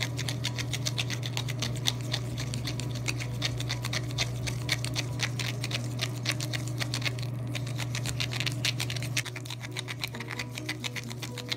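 A spoon stirring salt and thick body wash in a plastic Play-Doh lid, clicking and scraping against the plastic several times a second, over a steady low hum.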